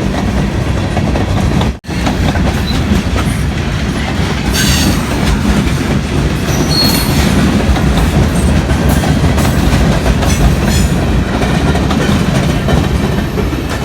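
A long train rolling steadily past at close range, its cars' wheels clacking over the rail joints, with a few short high wheel squeals in the middle. The sound drops out suddenly for a moment about two seconds in.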